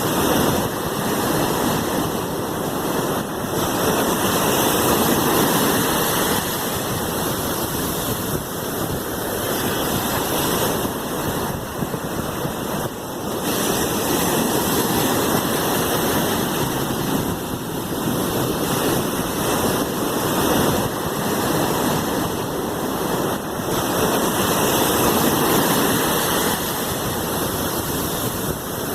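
Sea waves washing in a steady rush, swelling and easing every several seconds.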